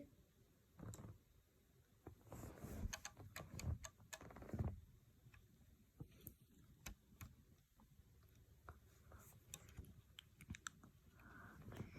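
Faint, irregular clicking and rustling of plastic LEGO bricks being handled and pressed together.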